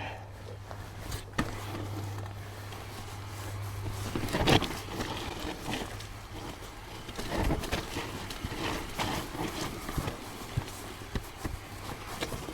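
Mountain bike descending a rough trail: tyres running over dirt and rock with irregular knocks and rattles from the bike, the loudest jolt about four and a half seconds in.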